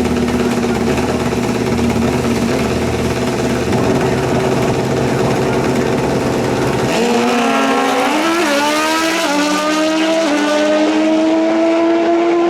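Drag-racing motorcycle engine held at steady revs, then about seven seconds in the sound changes sharply into a rising pitch broken by quick gear changes, as the bike launches and accelerates down the strip.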